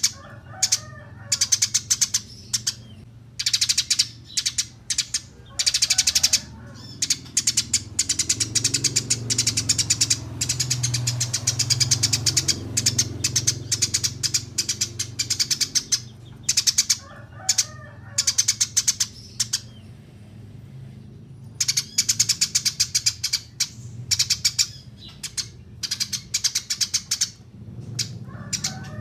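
Eurasian tree sparrows chirping: rapid runs of sharp, high chirps in bursts with short pauses between them.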